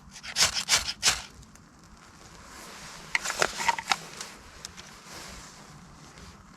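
Two short bouts of crinkly rustling, each about a second long: one at the start and one about three seconds in.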